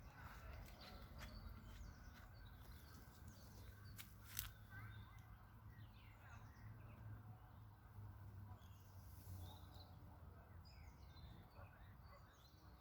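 Faint birdsong: small birds chirping and twittering on and off, over a low rumble, with one sharp click about four seconds in.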